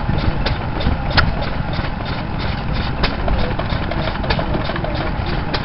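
Vintage stationary engines running: a steady low chugging with quick clicks, about four or five a second, and a louder sharp crack every second or so.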